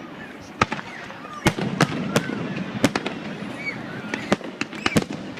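Aerial fireworks bursting, a series of sharp bangs at irregular intervals, several close together near the middle and again near the end, over a steady low rumble.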